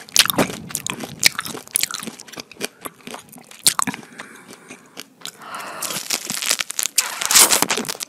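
Close-miked chewing and biting of fresh pineapple, with wet crunching and many quick clicks right at a lavalier microphone held to the mouth. There is a louder run of crunches near the end as she takes another bite.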